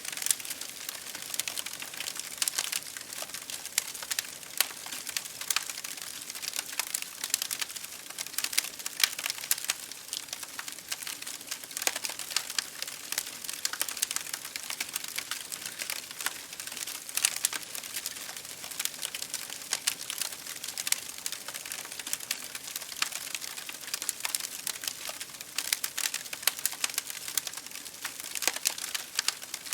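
Campfire crackling: a dense, irregular stream of small snaps, with louder pops scattered throughout.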